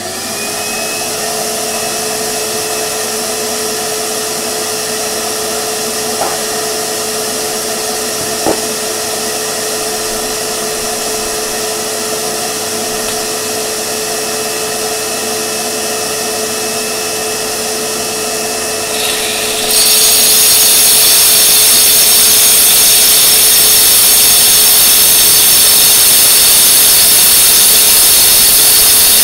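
Power saw with a new Spectrum diamond blade and its dust vacuum running with a steady whine. About two-thirds of the way through, the sound jumps louder and hissier as the blade cuts into the driveway.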